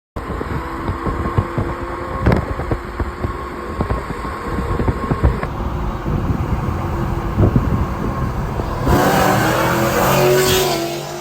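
Cars in a roll race accelerating hard at full throttle over a heavy, buffeting rumble. Near the end an engine's rising note swells loudly, then fades.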